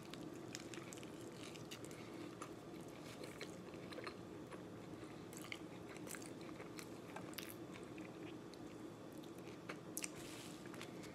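A bite into a burrito in a flour tortilla, then steady chewing: many small, scattered wet clicks of the mouth working the food.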